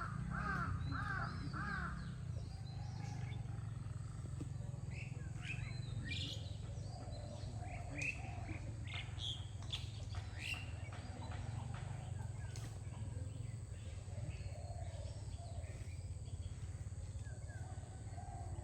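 Birds calling: a quick run of about five pitched calls at the start, then scattered short chirps, over a steady low rumble.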